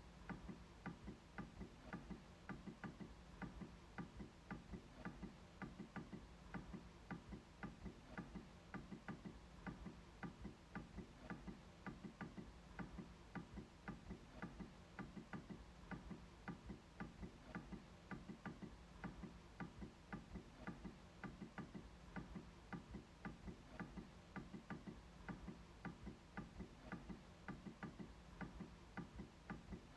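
MacBook trackpad being clicked over and over, a quick, slightly uneven series of faint clicks, a few a second.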